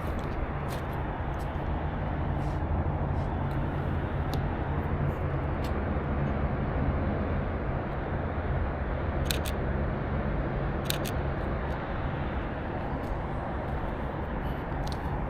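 Canon EOS RP camera shutter clicking a few times, twice in quick double clicks, over a steady low outdoor rumble.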